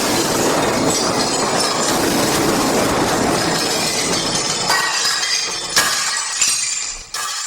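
A dense pile-up of layered cartoon sound effects: a continuous rattling din, then several sharp crashes with breaking, clinking glass in the last few seconds.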